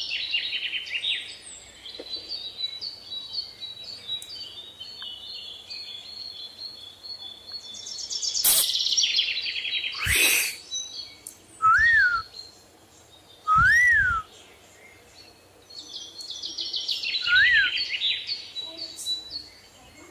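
Pet parrot calling: bouts of rapid, high chattering chirps at the start, about eight seconds in and near the end, with three short whistled notes that rise and fall in between.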